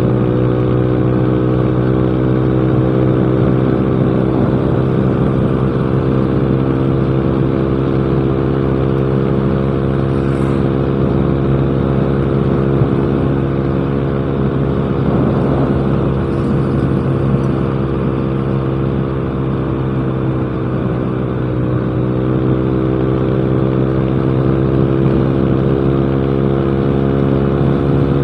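Yamaha Mio Smile scooter's single-cylinder four-stroke engine running through a cheap aftermarket exhaust at a steady cruising speed. The exhaust note holds an almost constant pitch, dipping slightly about three-quarters of the way through.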